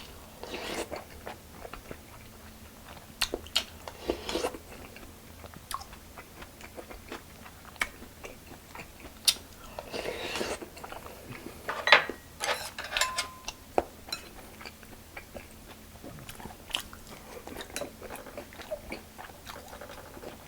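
A person chewing and crunching food up close, with short crisp bites and clicks scattered throughout and a few longer crunchy stretches.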